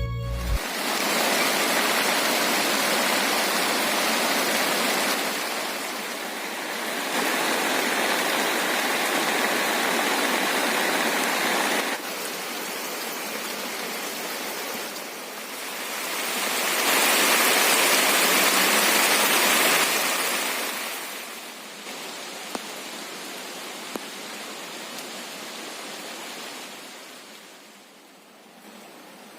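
Heavy rain falling steadily, a dense even hiss whose loudness steps up and down several times and fades near the end.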